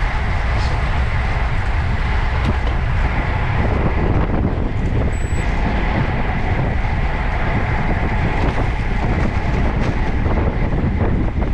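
Steady wind rushing over a bike-mounted camera's microphone, mixed with tyre and road noise from a bicycle riding at speed.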